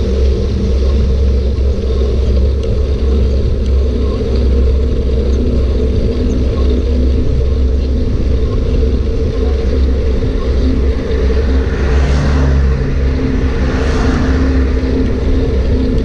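Steady low rumble of a bike ride, wind and rolling noise, with two brief rushing swells about twelve and fourteen seconds in.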